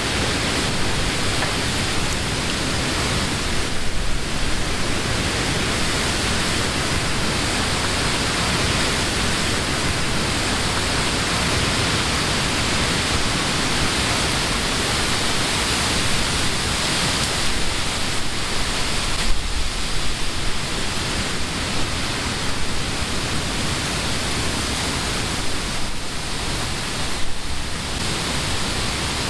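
Wind blowing steadily through leafy trees, an even hiss of rustling leaves that swells briefly in a few stronger gusts.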